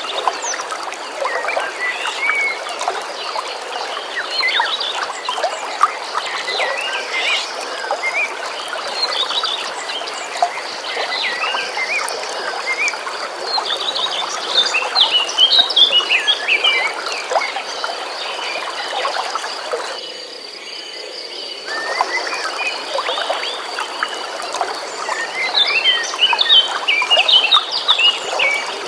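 Flowing stream water with many birds chirping and singing over it, and a steady high buzz or trill running underneath. The water sound dips out briefly about two-thirds of the way through.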